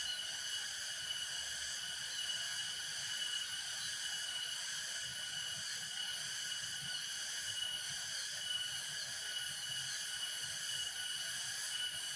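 Insect chorus: a steady, unbroken high buzzing drone with several overtones.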